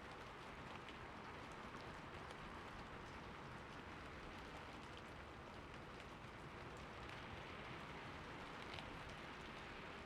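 Heavy rain falling steadily: an even hiss of rain with scattered individual drop ticks.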